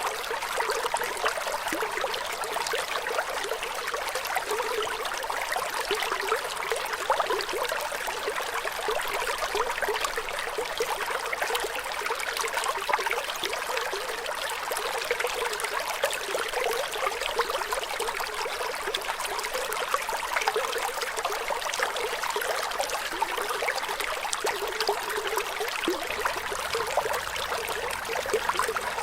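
Shallow stream water flowing and trickling steadily, a constant babbling hiss with fine splashing detail.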